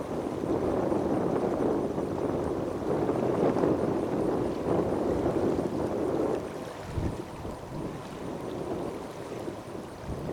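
Airbus A380-800's four jet engines at takeoff power during the takeoff and climb-out, a steady deep rushing roar that eases after about six seconds.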